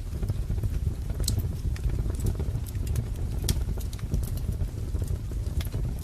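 Wood fire crackling: a steady low rumble of burning logs with scattered sharp pops, several in a few seconds.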